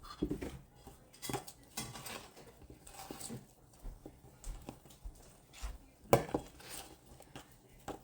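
Irregular clinks and knocks of a utensil against kitchenware while dumpling dough is worked, with one louder knock about six seconds in.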